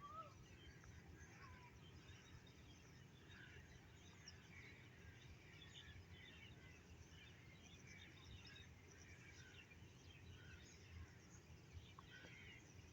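Faint birds calling, many short chirps scattered throughout, over a quiet, steady low rumble.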